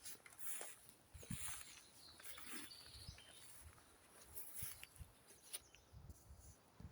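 Faint woodland birdsong: scattered short chirps and calls from several birds, with occasional soft footsteps on the forest floor.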